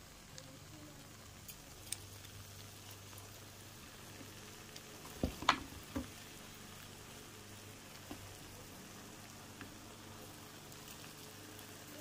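Char kway teow in a nonstick pan sizzling faintly and steadily, with a few light clicks and a short cluster of utensil knocks against the pan about five seconds in.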